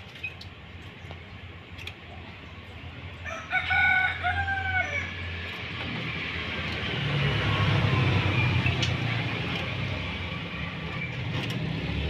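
A rooster crowing once, a pitched call lasting about a second and a half, starting about three and a half seconds in. A steady low hum and noise follow.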